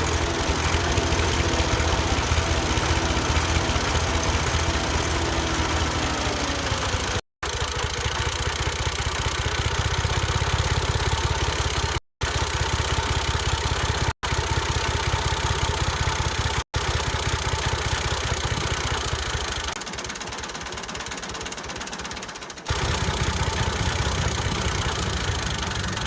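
The small motor of a home-made mini tractor running with a steady rattling drone, cut off abruptly and resumed several times.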